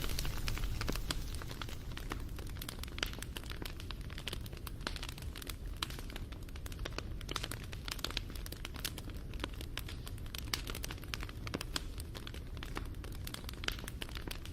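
Wood fire crackling: a dense run of sharp pops and snaps over a low, steady rumble of the burning fire.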